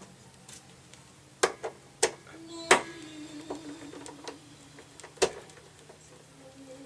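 Several sharp clicks and clinks of hand tools and screws being handled while screws are worked out of a jukebox cabinet panel: a pair about a second and a half in, another near two seconds, the loudest near the middle, and one more past five seconds.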